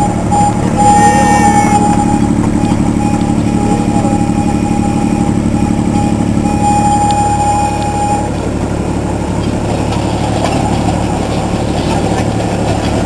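A miniature ride-on train's engine runs steadily under load. A thin high squeal sounds on and off over most of the first two thirds and then stops.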